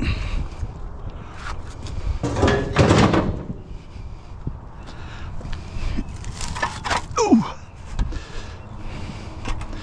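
Scrap being handled and shifted by hand: knocks, thuds and clatter, loudest about three seconds in, with a short falling squeal about seven seconds in.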